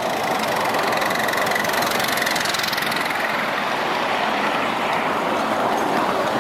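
Steady running noise of a ride-on miniature railway train: a continuous rumble and rattle of the train under way, with no clear beat.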